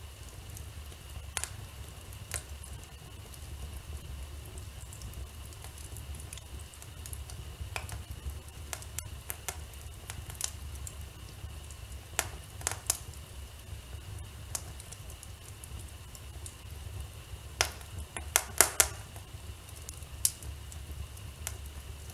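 Wood fire burning in a fireplace, crackling with scattered sharp pops over a steady low rumble. A quick cluster of louder pops comes near the end.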